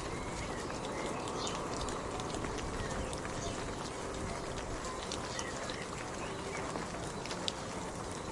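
Steady rain falling, with the sharp ticks of individual drops hitting a surface over a constant hiss.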